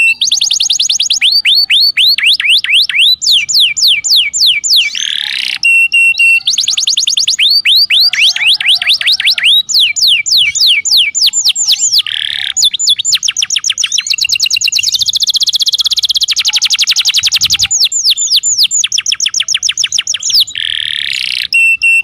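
Domestic canary song: long rolling tours of rapidly repeated whistled notes, each tour at its own speed, running one into the next with short flat whistles between. The same sequence of phrases comes round again near the end, as a looped tutor recording does.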